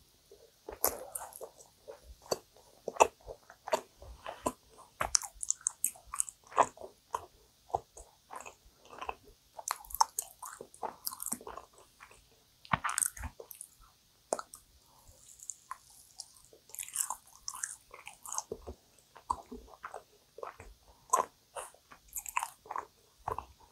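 Close-miked chewing and biting of sticky, dense yakgwa (Korean fried honey cookie), an irregular run of wet mouth clicks several times a second.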